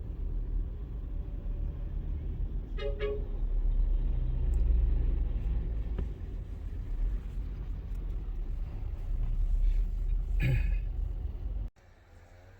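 Steady low road rumble of a moving vehicle, with a short horn toot about three seconds in and another near ten seconds. Just before the end the rumble cuts off suddenly to a much quieter background.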